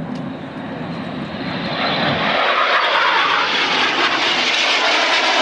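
BAE Hawk jet trainers flying a low display pass, their single turbofan engines' noise swelling loudly about two seconds in, with a low tone falling in pitch as they go by.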